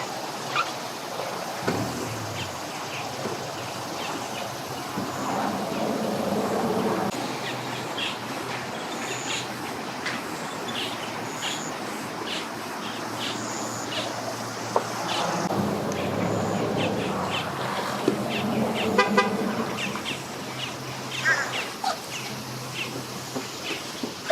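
A motor running low and steady, with a droning hum that swells twice: around six seconds in, and again from about fifteen to nineteen seconds. Short high chirps are scattered over it.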